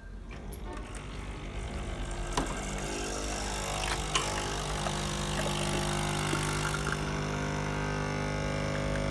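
Nespresso capsule machine brewing an espresso shot: its pump hums steadily, building over the first few seconds and then holding level. Two faint clicks come about two and four seconds in.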